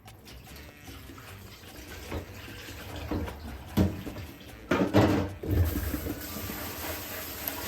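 A few knocks and clunks of things being handled, then about five and a half seconds in a tap is turned on and water runs steadily.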